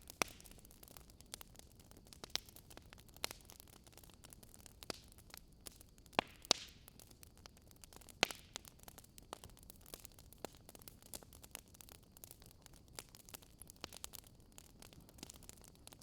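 Wood fire crackling: irregular sharp pops and snaps over a soft hiss, with a few louder pops about six and eight seconds in.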